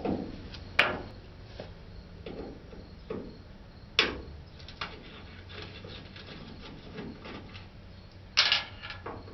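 Sharp plastic-and-metal clicks and light knocks from a pickup tail light assembly being worked loose and taken out: one click about a second in, another about four seconds in, and a short cluster of knocks near the end, with faint scraping and handling between.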